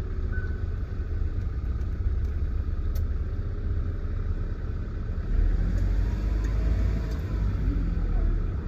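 Engine and road rumble of a manual-gearbox licence-test vehicle, heard from inside the cab as it pulls away and drives slowly. The low rumble grows louder about five seconds in.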